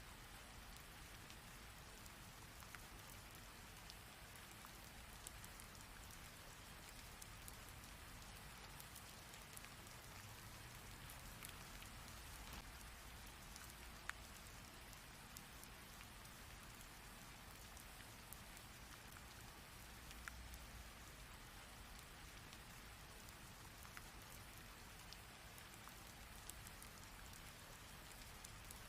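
Heavy rain falling steadily and softly: an even hiss with scattered sharp drop ticks. One louder drop lands about halfway through.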